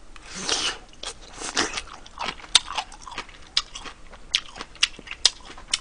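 A man eating close to the microphone: a short slurp about half a second in, then wet chewing with sharp mouth clicks and smacks coming irregularly, a few each second.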